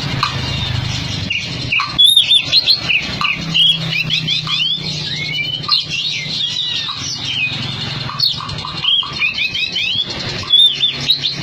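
Oriental magpie-robin (kacer) singing: quick runs of sharp, varied whistled notes broken by short pauses, over a low steady hum.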